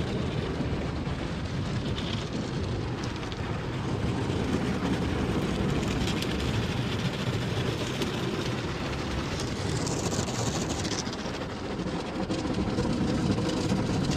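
Automatic car wash's rotating brushes scrubbing over the car with water spraying, a steady rumbling wash noise heard from inside the car's cabin.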